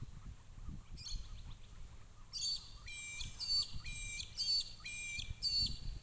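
A bird calling: one short call about a second in, then a quick run of repeated sharp notes, about two a second, through the second half.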